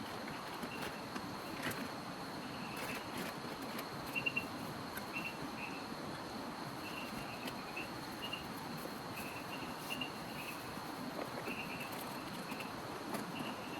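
Crickets chirping in short repeated bursts over a steady hiss of rain, with a few sharper ticks of drops landing.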